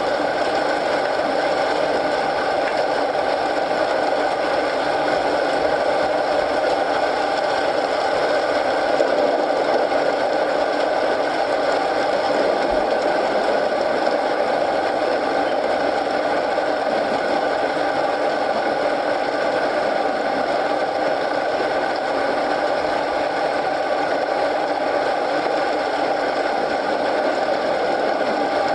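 Steady rain mixed with a crackling wood fire in a fireplace, a dense, even bed of sound with no pauses.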